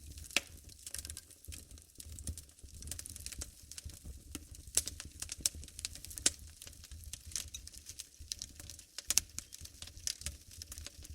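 Wood fire burning in a fireplace, crackling with many irregular sharp pops and snaps over a low rumble.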